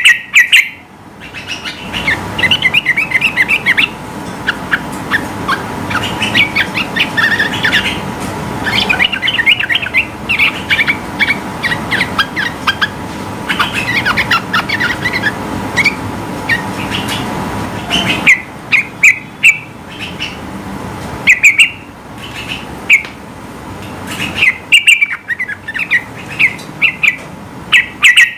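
Yellow-vented bulbul (trucukan) singing in repeated bursts of fast, chattering chirps with short pauses between phrases. A steady low background noise runs underneath for the first two-thirds.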